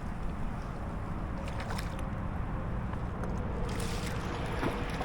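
Wind gusting over the microphone as a low, steady rumble, with water moving against a kayak hull and a few faint knocks.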